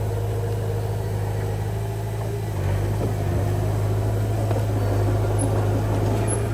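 A bulldozer's diesel engine running steadily with a deep, even hum, working a little harder about two and a half seconds in.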